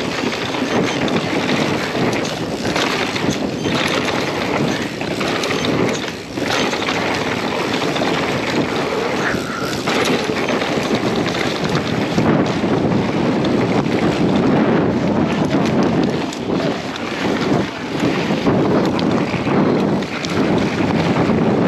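Wind buffeting the microphone of a riding mountain bike's camera: a loud, steady rushing noise that swells and dips, with tyre and trail noise mixed in.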